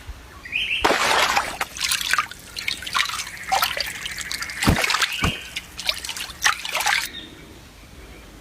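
Water splashing and sloshing in a quick, irregular run of splashes that starts about a second in and cuts off suddenly near the end.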